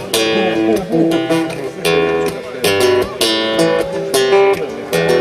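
Acoustic guitar strumming chords in a steady rhythm, the instrumental lead-in to a song, with no singing yet.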